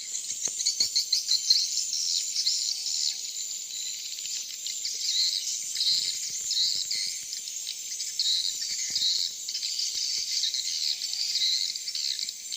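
Edible-nest swiftlet calls: a dense, continuous high-pitched chirping chorus that pulses again and again, the sound used to lure swiftlets down to a bird house at dusk.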